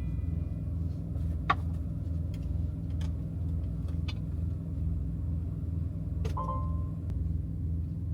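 Semi truck's diesel engine idling, a steady pulsing low rumble heard inside the cab. Over it come a few sharp clicks and, about six seconds in, a short ringing metallic clink.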